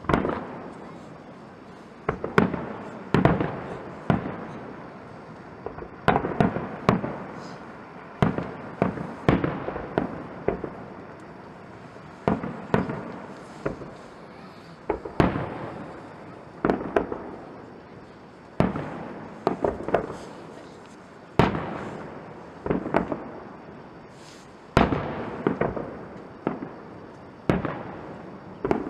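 Fireworks display: aerial shells bursting with sharp bangs every second or two, some in quick pairs or clusters, each followed by an echoing rumble.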